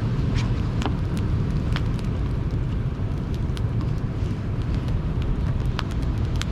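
Wood fire crackling with irregular sharp pops over the steady low rumble of sea waves.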